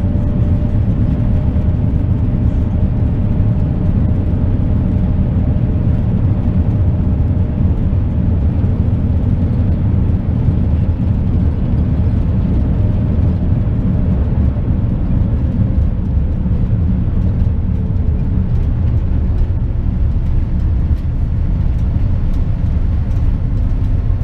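Boeing 787-9 jet heard from inside the cabin on its landing roll: a steady low rumble with a whine that holds, then drops in pitch over several seconds from about halfway through as the aircraft slows.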